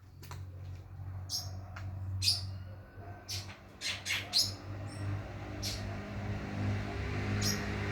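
An unseen bird giving a series of short, sharp, high chirps, about ten of them at uneven intervals, over a steady low hum.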